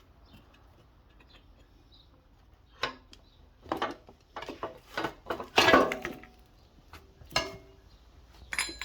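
Metal parts and tools clanking and clinking on a bare minibike frame. After a quiet start there are about a dozen separate knocks, the loudest a little past halfway with a short metallic ring, and a high ringing clink near the end.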